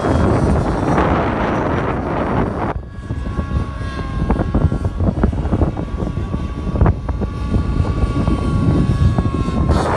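Radio-controlled model airplane's motor and propeller giving a steady high whine, starting about three seconds in and holding to near the end, over strong wind buffeting the microphone.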